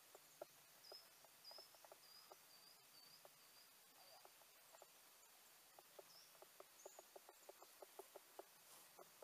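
Faint, near-silent outdoor quiet with a small bird giving a run of short high chirps, about two a second, then a few more a little later. Soft irregular ticks run underneath.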